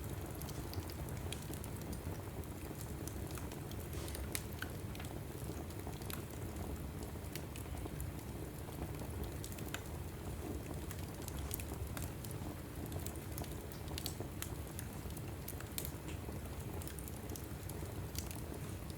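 Wood logs burning in a fireplace: a steady low rumble of flame with frequent sharp crackles and pops scattered throughout.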